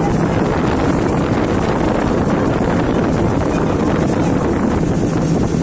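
Speedboat engine running at speed, a steady loud drone, with heavy wind buffeting the microphone.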